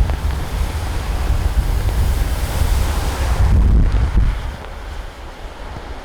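Strong wind buffeting the microphone, a deep rumble under a rushing hiss. The hiss thins out and the level drops about three and a half seconds in.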